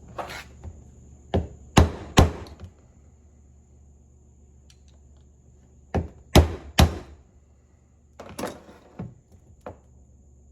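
Sharp hammer blows on a 1978 Ford steering box during reassembly, coming in three bursts of two or three strikes a few seconds apart.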